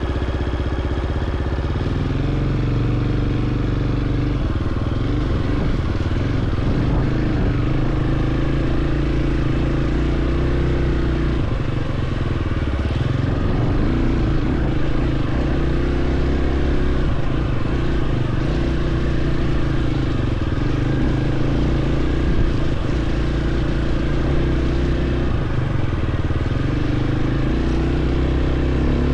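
Dirt bike engine running while being ridden, its pitch rising and falling every few seconds with the throttle.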